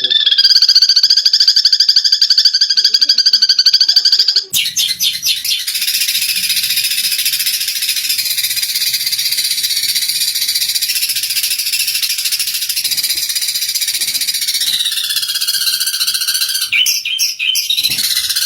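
Eurasian tree sparrows calling aggressively, as in a fight: a sustained buzzing trill for the first four and a half seconds, then dense, rapid chattering chirps, with the buzzing trill returning near the end.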